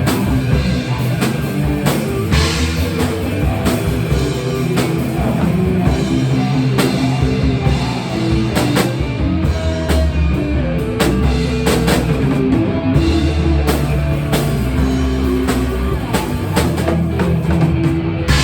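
Rock music with a drum kit and guitar playing at a steady beat.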